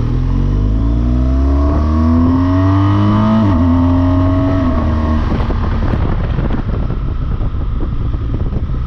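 A BMW R1200GS Rallye motorcycle's boxer-twin engine accelerating hard, its pitch rising for about three and a half seconds, dropping at a gear change, then holding steady. From about five seconds in, rushing wind buffeting the microphone covers the engine.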